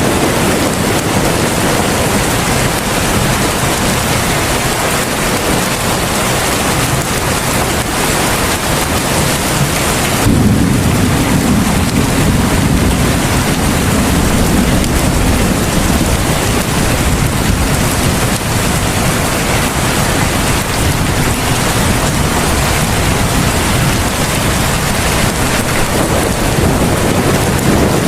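Heavy rain pouring steadily. About ten seconds in, a deep rumble swells and fades away over several seconds.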